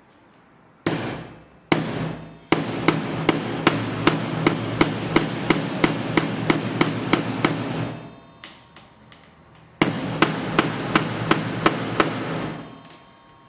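Power drill running: two short trigger bursts, then two longer runs with a sharp regular knock about three times a second over the motor.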